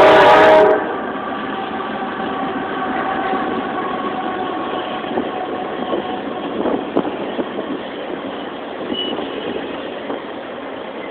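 Norfolk Southern Triple Crown RoadRailer freight train rolling past: a steady rumble of wheels on rail with scattered clicks and knocks. A loud sustained chord-like tone cuts off less than a second in.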